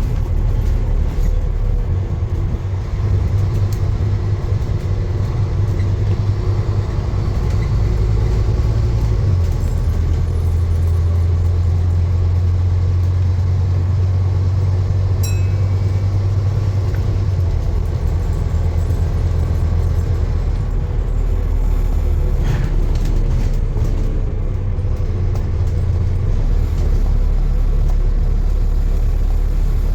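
A steady, loud low rumble of a running vehicle, its low drone shifting in pitch a few times.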